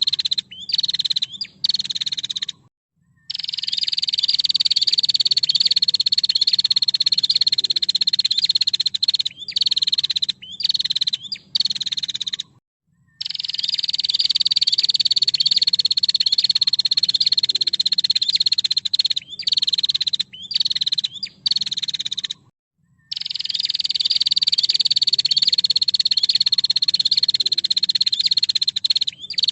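Female prinia (prenjak) giving a long, rapid buzzing trill that slowly falls in pitch over about eight seconds. It is broken by a few short choppy bursts and repeats about every ten seconds as a looped recording.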